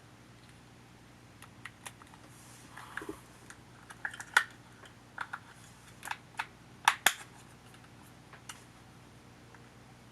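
Irregular small, sharp clicks and taps from handling a camcorder's parts and tools during its disassembly, with two louder taps near the middle. A faint steady hum lies under them.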